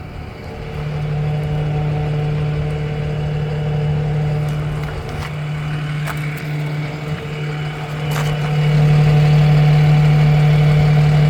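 Peterbilt service truck's diesel engine running steadily, a constant low hum that grows louder about eight and a half seconds in, with a few faint clicks along the way.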